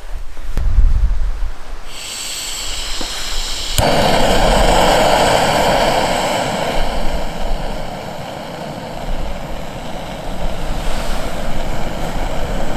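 Small camping gas stove being lit: gas hisses from the opened valve, then a sharp igniter click about four seconds in, and the burner catches at once and runs with a steady loud rush.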